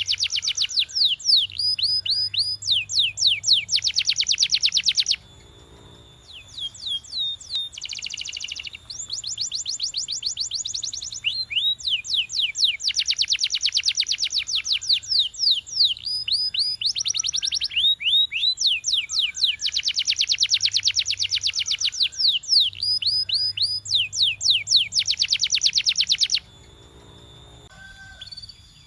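Canary singing: rapid trills and quick downward-sweeping whistles in long phrases, with a short pause about five seconds in and another near the end.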